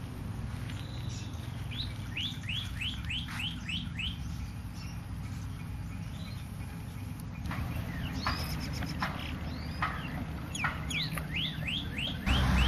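A small bird calling in quick runs of short, downward-sweeping chirps, two runs of about half a dozen notes each, over a steady low background rumble. Near the end a louder low noise comes in.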